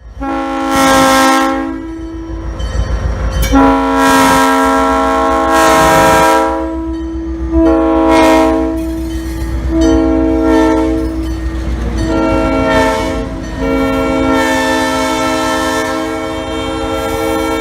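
Locomotive multi-note air horn sounding six blasts, the second and last long and the rest shorter, each a chord of several steady notes. Under the horn runs the low rumble of the train moving along the track.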